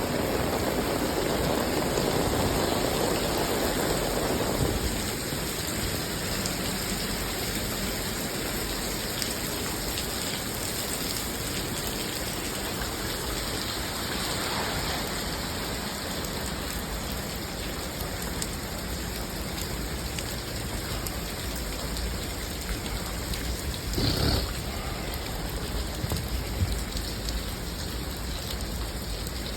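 Steady rainfall hissing on surfaces, with a louder, deeper rush for the first few seconds and a short sharp knock near the end.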